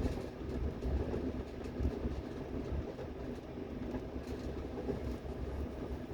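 Train running on the rails: a steady low rumble with faint irregular clicks.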